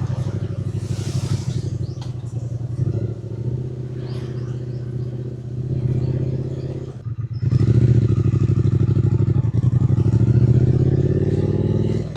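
Triumph Speed Twin 900's parallel-twin engine running under way on the road. About seven seconds in the engine sound drops out briefly, then comes back louder and rises in pitch as it pulls. A short hiss comes about a second in.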